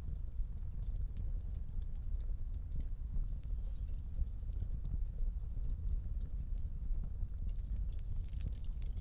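Wood fire crackling in a fireplace: many small sharp pops and snaps over a steady low rumble of burning.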